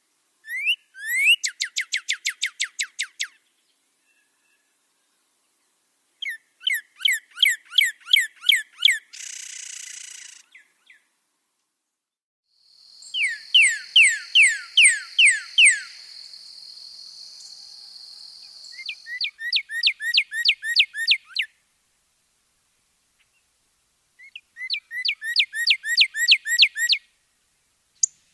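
Caged songbird kept as an 'angrybird' singing five phrases of rapid, clear downward-slurred whistled notes, each phrase about two to three seconds long with pauses between them. A steady high hiss runs under the middle phrase for several seconds.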